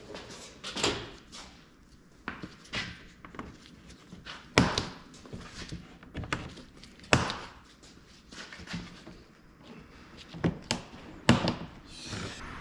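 Scattered sharp knocks and clanks of hand tools and metal parts during under-car suspension work, about a dozen strikes spread irregularly, the loudest about four and a half and seven seconds in, with a quick cluster near the end.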